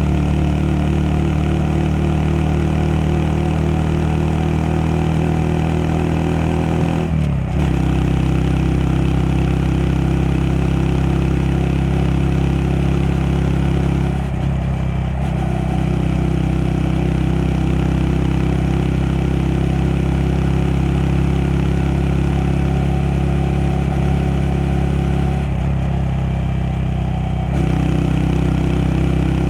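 Honda Monkey 125's single-cylinder four-stroke engine running steadily under way. Its note dips and shifts briefly about seven seconds in, again about fourteen seconds in, and once more near the end.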